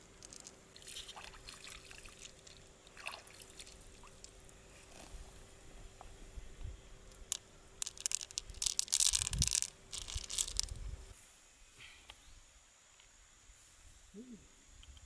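Wet clicking and crackling with dripping water, as clam shells are handled in water; loudest about eight to ten seconds in, then dying down.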